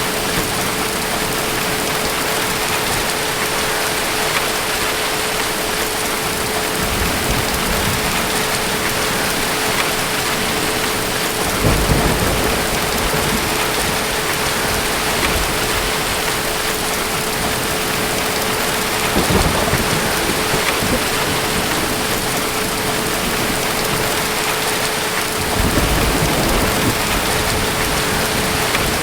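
Steady heavy rain with distant thunder rumbling low several times: once about seven seconds in, most strongly about twelve seconds in, then again near nineteen and twenty-six seconds.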